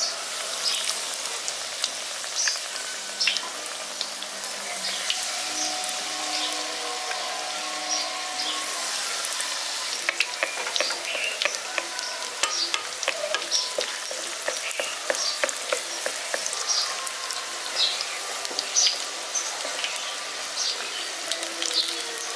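Batter-coated mushroom pieces deep-frying in hot oil in a kadai: a steady sizzle with many small crackling pops, while a wooden spatula stirs them.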